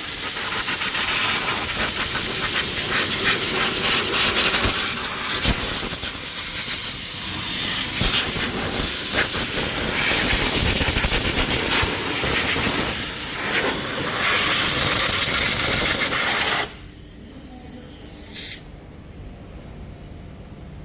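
Compressed air blowing over the engine bay to dry off rinse water: a loud, continuous rushing hiss that varies a little in strength. It stops abruptly about three-quarters of the way through, then a short blast follows about two seconds later.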